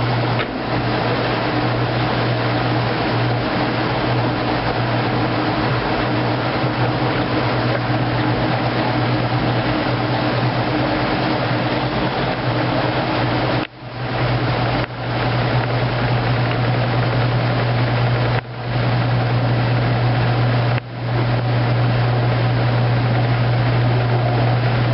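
2008 Kenmore top-loading washing machine running steadily through its heavy duty cycle, with a constant motor hum. A steady higher tone drops out about halfway through, and the sound cuts out briefly a few times near the end.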